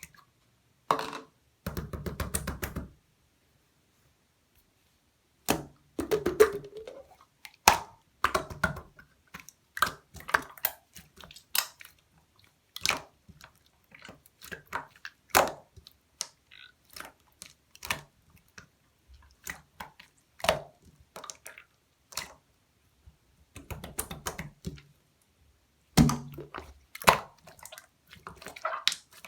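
Clear slime being pressed, poked and folded by hand, giving irregular sticky pops and crackles with short pauses between them.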